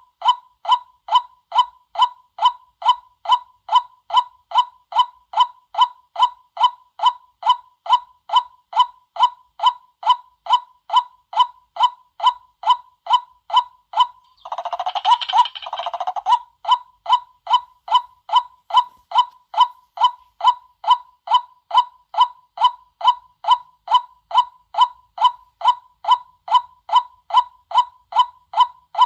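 White-breasted waterhen calling, a steady run of repeated kwak notes, roughly two and a half a second, used as a lure call. About halfway through, the calling turns briefly faster and harsher for a second or two, then the even notes resume.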